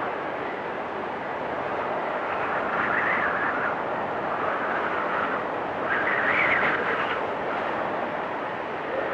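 Storm wind blowing with a steady rush, swelling into a higher whistling gust about three seconds in and again around six to seven seconds.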